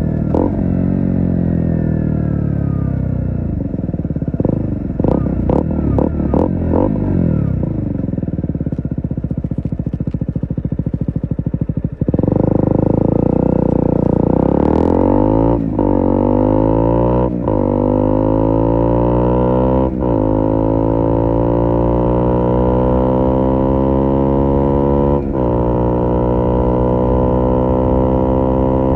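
KTM Duke 125's single-cylinder engine through an IXIL IXRACE MK2 exhaust, revs falling with a cluster of sharp pops on the overrun. About halfway through it opens up louder, revs climbing and dropping back at four upshifts.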